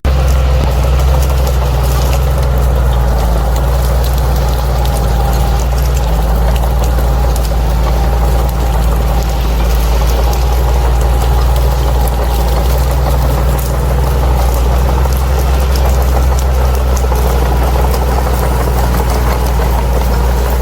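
Bulldozer's diesel engine running steadily, a deep constant rumble with a faint steady whine above it.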